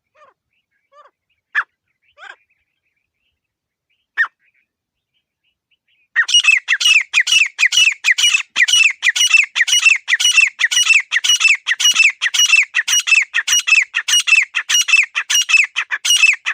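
Grey francolin (desi teetar) calling: a few short single notes, then, about six seconds in, a fast run of loud repeated call notes, roughly three a second, lasting to the end.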